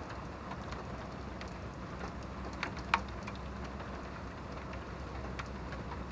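Steady rain with scattered drops tapping on a surface and one louder drop about three seconds in, over a low steady rumble.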